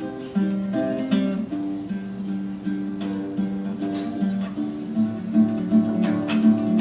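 Acoustic guitar fingerpicking the song's accompaniment, a steady repeating pattern of plucked notes between sung lines.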